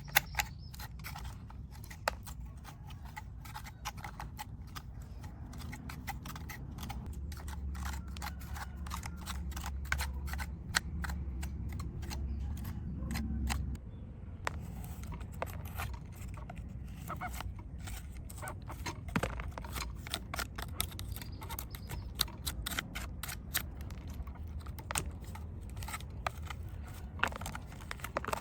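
Many small clicks, ticks and light scrapes from handling and cleaning a diecast model car. A low hum runs under them through the middle and cuts off suddenly about 14 seconds in.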